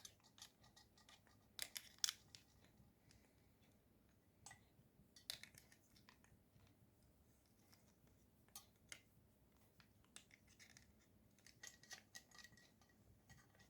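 Near silence broken by faint, scattered clicks and light scrapes of small objects being handled.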